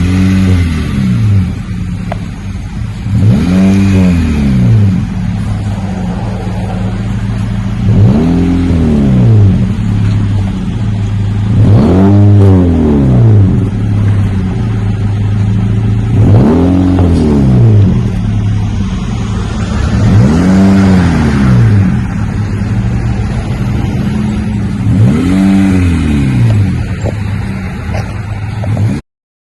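Exhaust of a 2019 Honda Civic Sport with the rear muffler deleted and the factory resonator left in place, idling and blipped about seven times, roughly every four seconds. Each time the revs rise quickly and fall back to idle, giving a deeper rumble from the dual tips.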